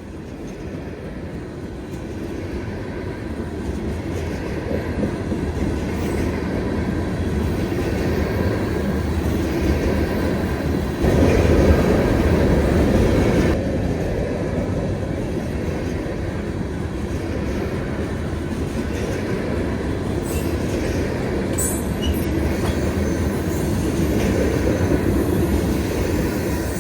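Freight train rolling past, its wheels on the rails making a steady rumble that builds over the first few seconds, with brief high wheel squeals about 20 seconds in.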